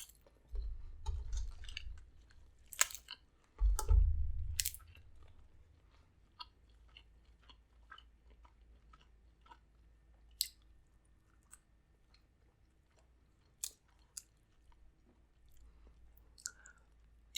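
Close-miked chewing and eating, with a couple of low thuds in the first few seconds and then scattered small clicks and snaps, from eating a seafood boil with snow crab.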